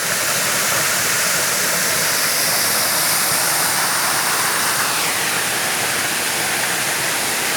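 Waterfall: falling water rushing in a loud, steady roar of noise.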